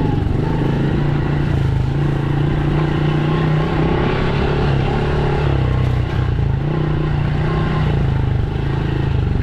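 Dirt bike engine running steadily, its revs rising and falling a little at a time.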